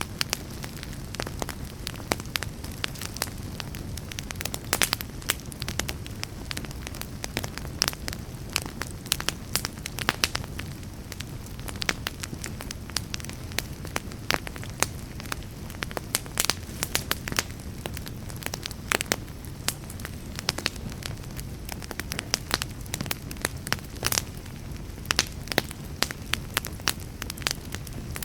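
Wood fire crackling in a fireplace, with many sharp, irregular pops and snaps over a steady low rumble.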